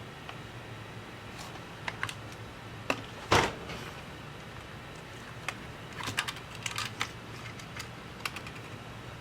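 Scattered light clicks and taps of small tools and parts being handled during laptop repair, with one louder knock about a third of the way in and a quick run of clicks just past the middle, over a steady low hum.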